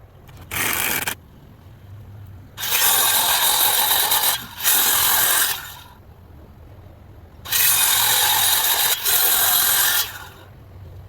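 Power tool running in bursts: one short burst, then two pairs of bursts of one to two seconds each, starting and stopping sharply.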